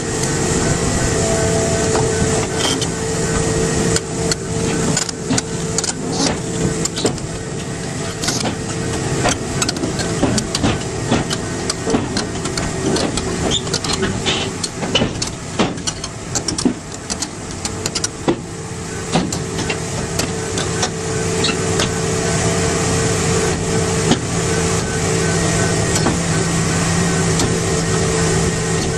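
A heavy machine's engine running steadily, with frequent sharp clanks and knocks over it.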